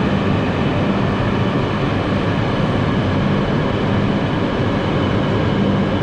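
Hayabusa Shinkansen train running: a steady, loud rumble with a low hum and no breaks.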